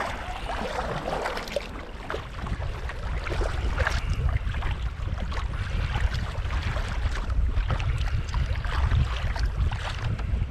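Kayak paddles splashing and dipping in lake water, with wind rumbling on the microphone.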